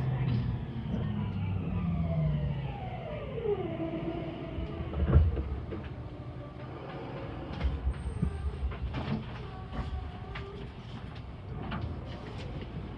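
Meitetsu 2000-series electric train's traction motors whining, the whine falling steadily in pitch as the train slows, over rail rumble. There is a sharp thump about 5 seconds in, and scattered clicks and clatter follow.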